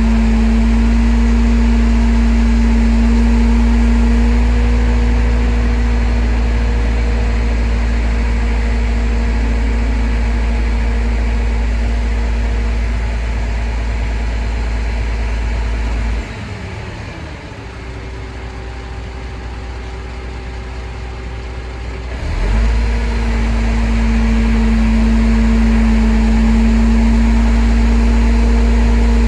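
Truck engine running at a steady raised speed with a strong hum. About sixteen seconds in it drops to a lower speed, and about six seconds later it rises back to the same pitch.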